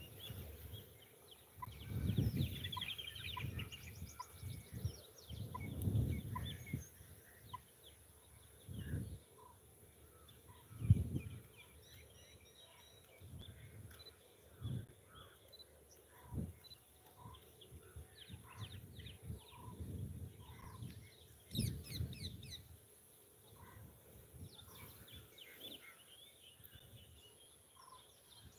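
Birds calling and chirping, with one short note repeated about once a second. Several low rumbles and thumps come and go, the loudest a sharp thump about eleven seconds in.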